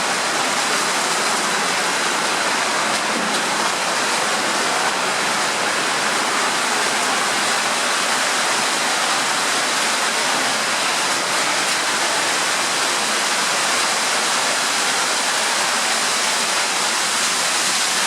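Underground waterfall in a tunnel, water pouring and rushing steadily.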